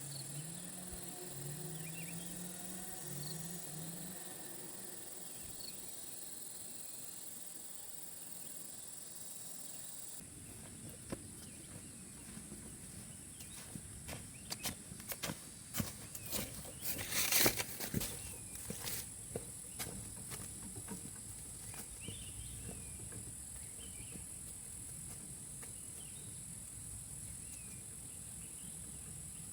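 Steady high-pitched chirring of crickets and other insects. A low rising note repeats several times in the first few seconds, and irregular cracks and clicks come in the middle, loudest about seventeen seconds in.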